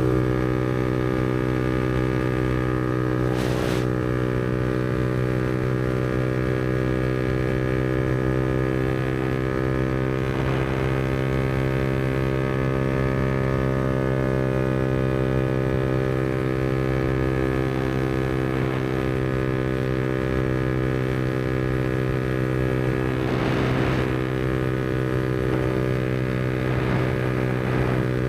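Yamaha MT-125's 125 cc single-cylinder four-stroke engine running through an aftermarket Black Widow exhaust, holding a steady pitch while cruising at constant revs. Three brief rushes of noise pass over it.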